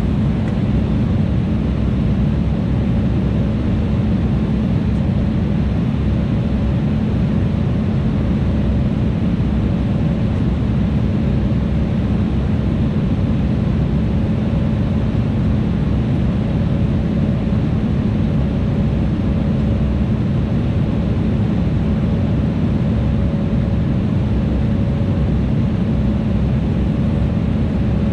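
Steady in-flight cabin noise of an Embraer E175 airliner: the drone of its turbofan engines and the rush of air over the fuselage, with a constant low hum and a faint higher tone on top.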